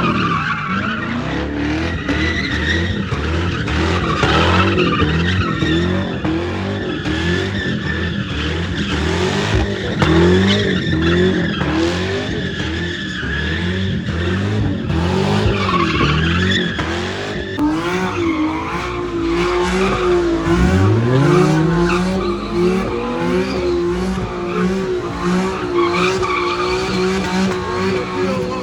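Car engine revving up and down over and over with tyres squealing and skidding, as in street drifting or donuts. Near the end the revs dip, sweep back up and are held high while the tyres keep squealing.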